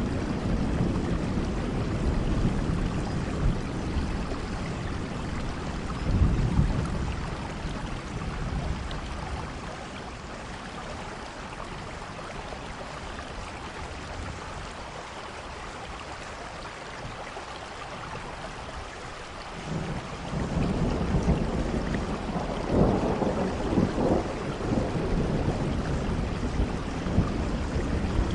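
Steady rain falling, with low rolling rumbles of thunder underneath; the rumble dies away over the first several seconds, leaving only the rain, and rolls back in about two-thirds of the way through.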